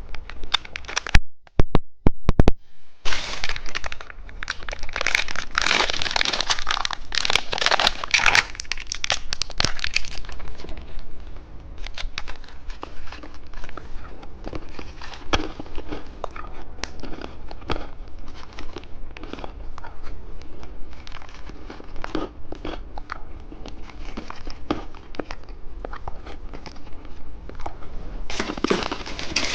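Close-up crinkling and tearing of a plastic candy wrapper, loudest for several seconds near the start, followed by a long run of small crisp clicks and crunches from handling and eating the candy.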